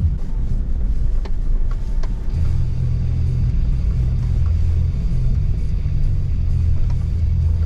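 Nissan Pathfinder driving, a steady low rumble of the vehicle with a few faint ticks, with electronic music playing over it.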